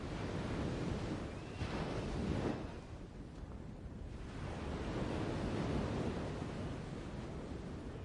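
Surf washing on a shore, swelling and ebbing twice, with a faint short high call about one and a half seconds in.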